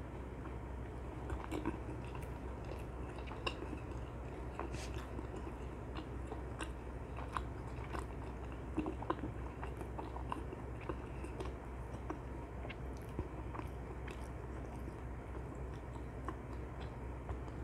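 Close-miked chewing of dakgangjeong, sticky-glazed Korean fried chicken, with irregular crisp crunches throughout.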